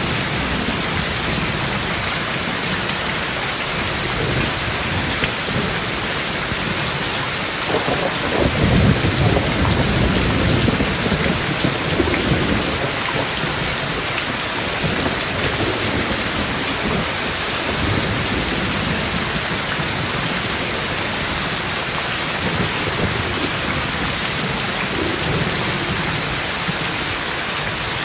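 Heavy rain falling steadily, with thunder rumbling low underneath; the loudest roll of thunder swells about eight seconds in and fades over the next few seconds, with softer rumbles later.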